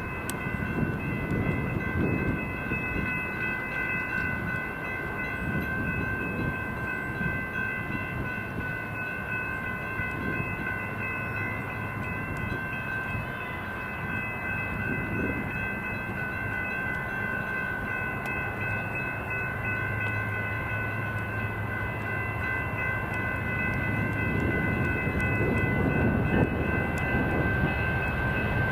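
A train running past with a low rumble that grows louder near the end, over a steady, high-pitched ringing of several held tones.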